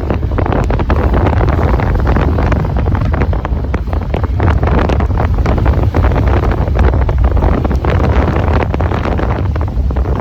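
Wind buffeting the microphone of a moving scooter: a loud low rumble broken by rapid crackles, with road noise underneath.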